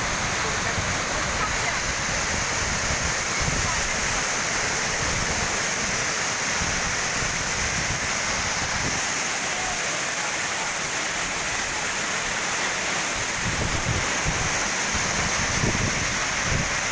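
A waterfall pouring steadily into its pool, making a loud, even rush of falling water.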